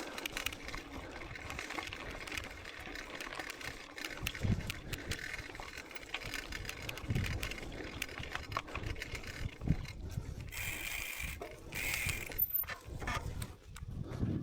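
Mountain bike ridden over a rough trail: the bike rattles and clicks over the bumps, with tyre noise and occasional low knocks. Near the end come two short, brighter bursts of noise.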